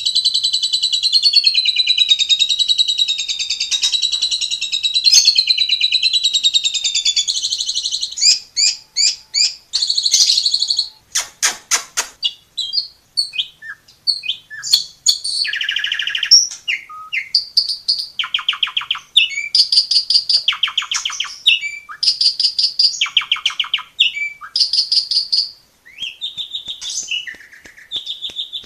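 Asian pied starling (jalak suren) singing a long, varied song. It opens with an unbroken warbling trill lasting about seven seconds, then breaks into separate whistles, clicks and fast rattling runs of notes.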